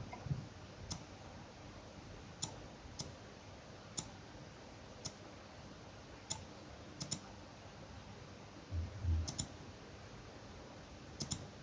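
Computer mouse clicking at irregular intervals, sometimes in quick double clicks, as a design program is worked. A soft low thud about nine seconds in.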